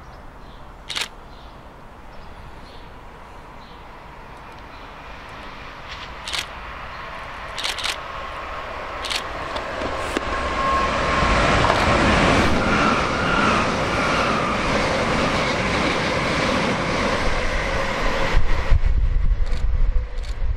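A train approaching and passing. A faint rushing sound grows over several seconds into loud wheel-on-rail noise about halfway through, and a deeper rumble comes in near the end. A few sharp clicks sound during the quieter first half.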